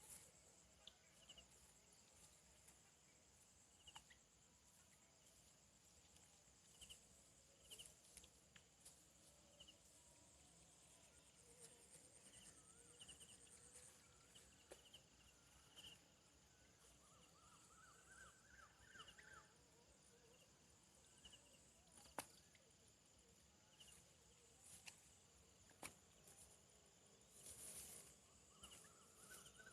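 Faint rural outdoor ambience: a steady high insect drone with repeated short chirps, two brief trilled calls, and scattered light clicks, the sharpest a little past the middle.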